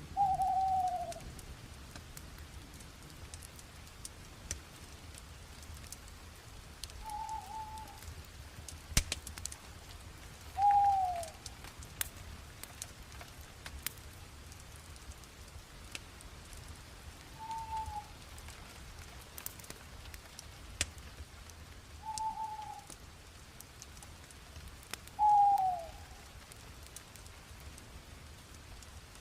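Campfire crackling with scattered small pops over a low steady rush. A bird calls six times in short, mostly falling notes, louder than the fire.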